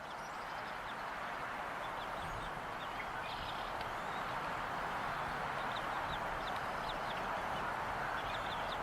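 Steady rushing outdoor noise with many faint, short, high bird chirps scattered throughout.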